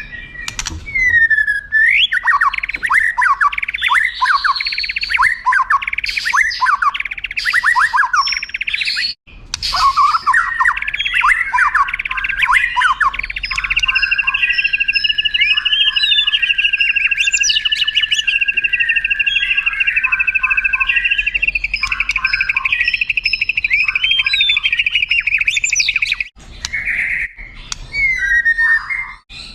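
White-rumped shama (murai batu) singing. It opens with a run of quick downward-sweeping whistled notes, then holds a long unbroken rolling trill for about eight seconds, with short breaks in the song near the middle and near the end.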